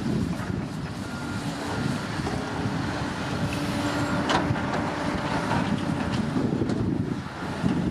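Komatsu D65P bulldozer's diesel engine running under load with a steady low rumble, a sharp metallic clank about halfway through, and faint short high beeps repeating in the background.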